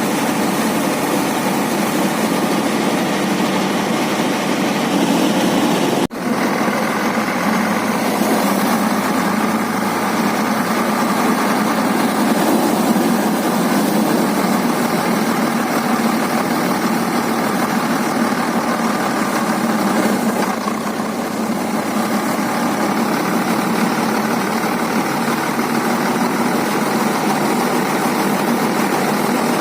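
Engine of a tur (pigeon pea) harvesting machine running steadily, with a brief break about six seconds in.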